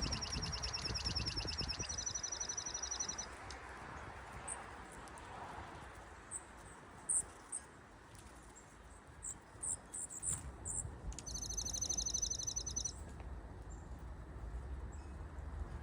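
A small songbird singing a fast, even trill of repeated high notes that steps up in pitch partway through. Scattered short high chip calls follow, then a second, shorter trill about eleven seconds in.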